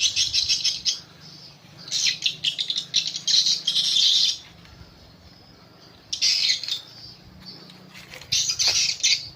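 Swiftlets' twittering calls, coming in four bursts of rapid buzzy chirps with short quiet gaps between them, over a faint steady low hum.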